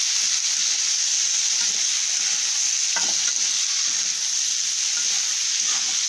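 Okra and potato strips sizzling in hot oil in a kadai as a spatula stirs and tosses them, with a steady hiss. A few light knocks of the spatula against the pan come about three seconds in and near the end.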